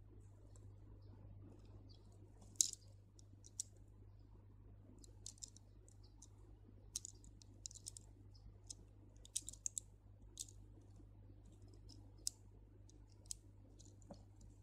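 Small acrylic beads clicking and ticking lightly against one another as line is threaded through them, in scattered, irregular clicks over a faint steady low hum.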